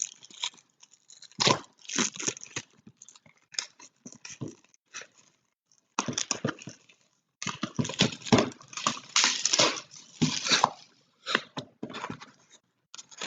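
Shrink wrap and cardboard of a trading-card hobby box being torn open and crinkled, in irregular bursts of crackling with short pauses.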